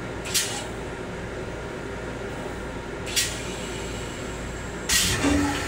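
Steady rumble inside the restroom of an M7 electric railcar, broken by short bursts of hissing air: one near the start, one about three seconds in, and a longer one near the end that carries a brief low tone.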